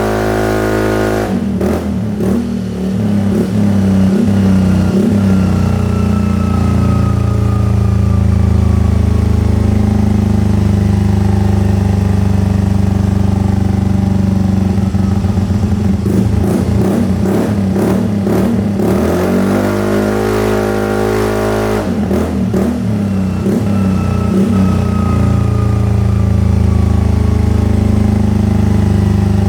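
Yamaha QBIX single-cylinder scooter engine running through a Yoshimura Tri-Cone carbon full-system exhaust, held at raised revs in long steady stretches and twice dropping back to a lumpy, pulsing idle before being blipped up again.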